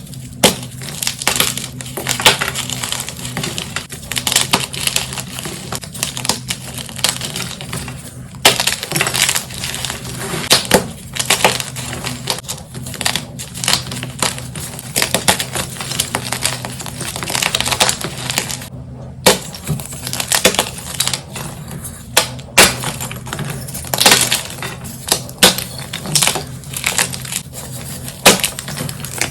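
Blocks of reformed gym chalk being crushed, giving a dense run of crisp, glassy crunches and crackles with a brief pause about two-thirds through.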